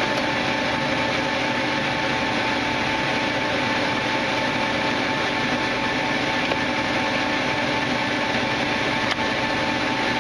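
Victor engine lathe running under power, a steady mechanical whir with several steady whining tones from its gearing.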